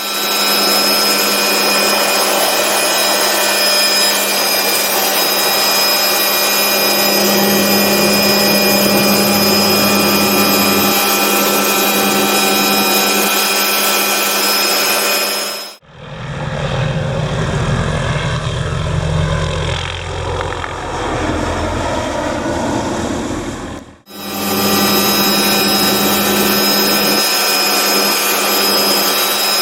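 Hughes MD500D helicopter running, its turbine giving a steady whine over several fixed pitches. About 16 s in, a sudden cut switches to a deeper sound, heavier in the low end, for about eight seconds. A second cut then brings back the steady whine.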